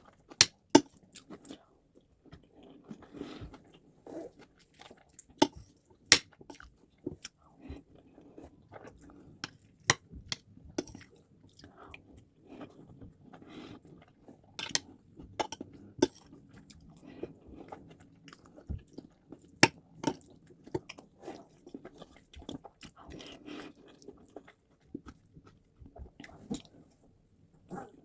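Close-miked chewing of white rice and stew: soft, wet mouth sounds, broken by frequent sharp clicks at irregular intervals.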